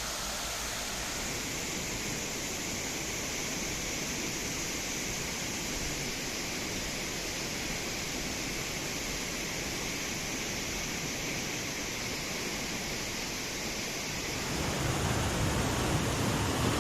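River water rushing steadily over rocks. Near the end the sound becomes louder and fuller, with more low rumble.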